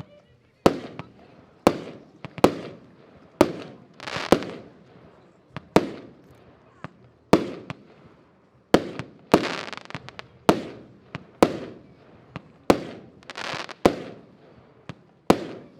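Diamond Shock Wave 120-shot compound fireworks battery firing: sharp reports about once a second, each followed by crackling, with several longer crackling tails.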